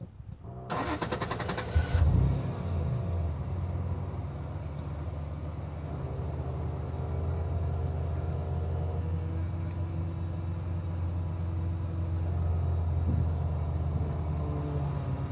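Toyota Land Cruiser 90's engine cranked by the starter for about a second, catching with a brief rev, then idling steadily.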